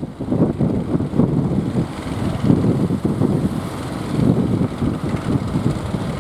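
Strong wind buffeting the microphone: a loud, gusty rumble that swells and dips irregularly.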